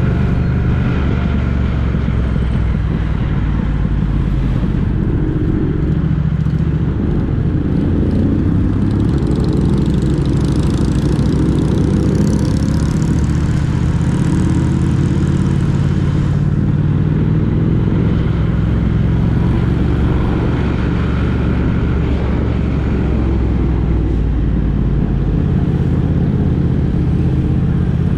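A motor vehicle's engine and road noise during a drive: a steady, loud low drone. A hiss swells for several seconds in the middle.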